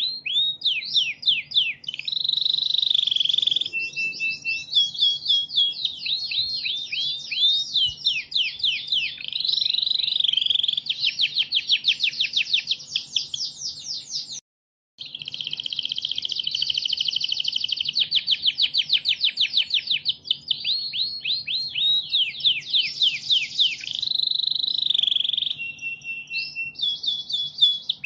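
Domestic canary singing continuously: high-pitched rapid trills and rolling, sweeping phrases, one after another, broken by a brief silence about halfway through.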